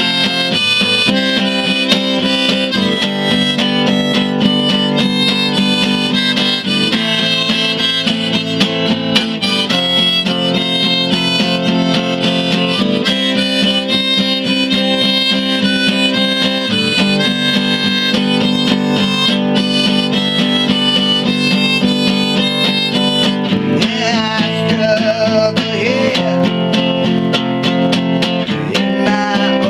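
Harmonica played over acoustic guitar accompaniment in an instrumental passage of a song, the chords changing every few seconds.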